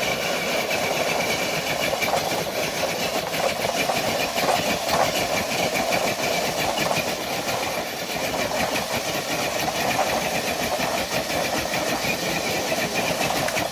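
RC crawler truck's motor and drivetrain whining steadily under heavy load as it drags a dead-weight sled loaded with nine bricks, cutting off suddenly at the end of a full pull.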